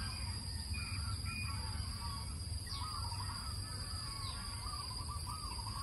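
Birds calling, with short chirps and warbling calls that come thicker in the second half, and two brief falling whistles. A steady low rumble and a steady high-pitched tone run beneath them.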